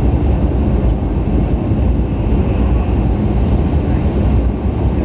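Steady low rumble of a 500 Series Shinkansen running, heard inside the passenger car.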